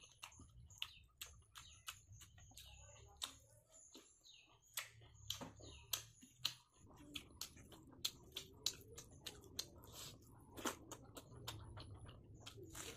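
Close-up chewing and lip smacking of a mouthful of rice and fried pork, a run of many sharp wet mouth clicks at an uneven pace.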